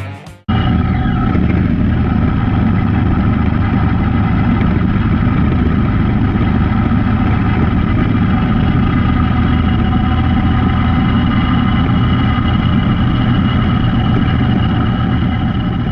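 Motorcycle engine running steadily at an unchanging speed, starting about half a second in.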